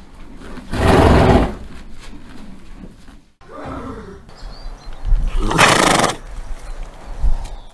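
Horse neighing: three loud calls, one about a second in, a shorter one with a wavering pitch near the middle, and the longest near the end.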